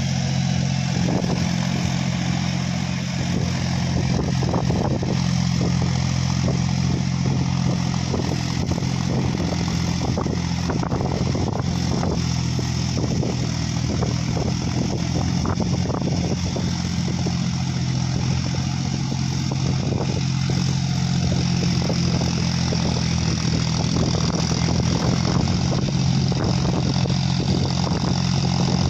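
John Deere 5050D tractor's diesel engine running at a steady speed, an even low drone with no revving up or down.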